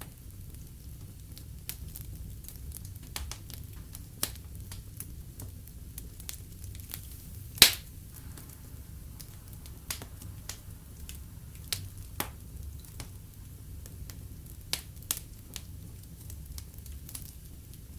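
Fire in a fireplace crackling: a steady low rumble with scattered irregular crackles and snaps, and one sharp, loud pop a little before the middle.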